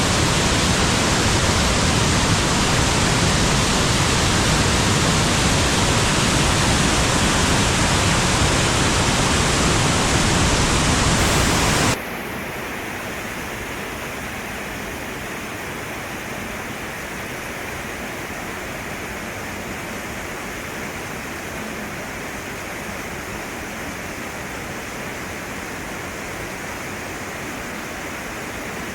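Waterfall rushing, a loud steady noise. About twelve seconds in it drops suddenly to a quieter, softer rush, thinner in the deep and the high end.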